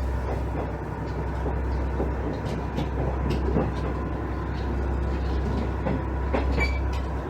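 JR East KiHa 110-series diesel railcar running under way, heard from inside the car: a steady low drone from its DMF14HZ diesel engine, with scattered clicks from the wheels over rail joints.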